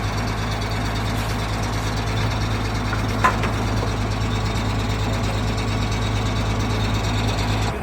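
Diesel engine idling steadily with a deep, even hum, with one short sharp click a little over three seconds in.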